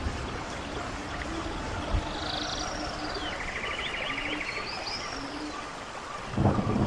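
Running stream water with songbirds singing: rapid trills and high chirps, and a few short low notes. Near the end a much louder low rushing noise comes in suddenly.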